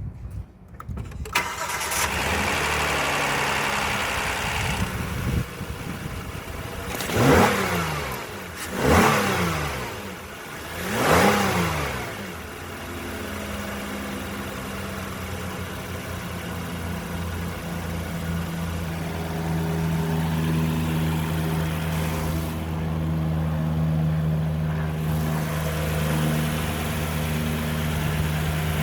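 2018 Kia Sorento engine starting about a second in and running, then revved three times in quick blips before settling into a steady idle.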